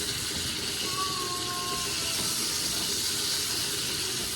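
Browned chicken pieces and spices frying in a pan, a steady sizzle.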